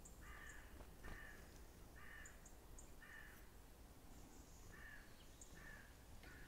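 A bird calling over and over in short, harsh-edged notes, about seven of them roughly a second apart, with faint high chirps in between.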